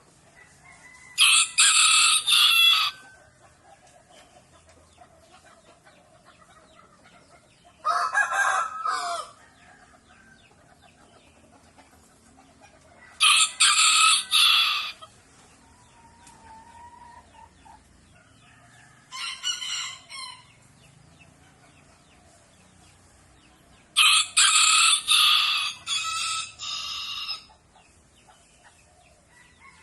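Rooster crowing five times, each crow lasting one to three seconds, about every five to six seconds; the fourth crow is fainter.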